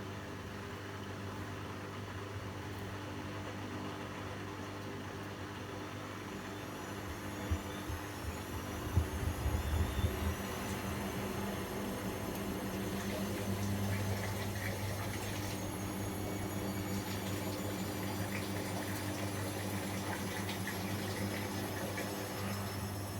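Bosch Avantixx 7 Sportline WAQ2849S washing machine running, with a steady low hum. From about six seconds in, a faint whine rises in pitch as the drum motor speeds up. A few knocks come around eight to ten seconds in.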